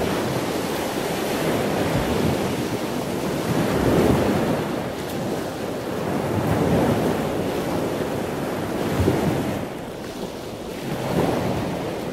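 Ocean waves washing in, a steady rush of surf that swells and eases every few seconds.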